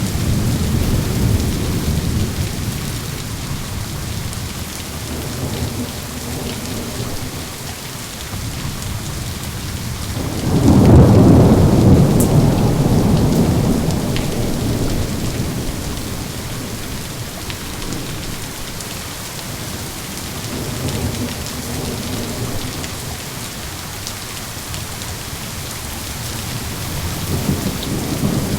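Steady heavy rain with rolling thunder. One loud thunderclap breaks about ten seconds in and rumbles away over several seconds, and lighter rumbles come and go.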